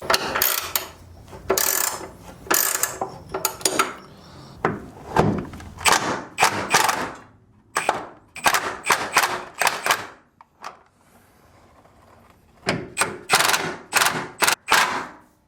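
Hand tools working on metal: irregular clanks, clicks and knocks in loose clusters, with a quiet pause a little past the middle.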